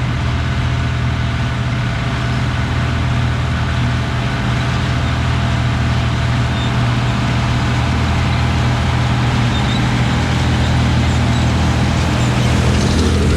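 Don-1500B combine harvester's diesel engine running steadily at a constant speed.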